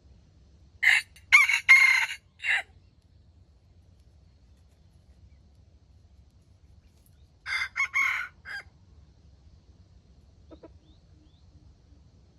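Junglefowl rooster crowing twice, about six seconds apart, each crow a short call broken into several syllables.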